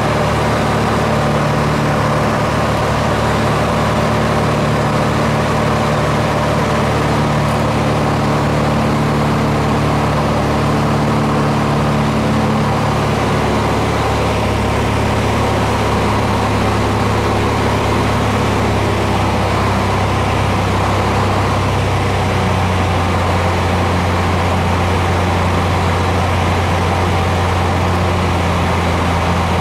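Aircraft engine droning steadily, heard from inside the cabin, its pitch shifting slightly twice.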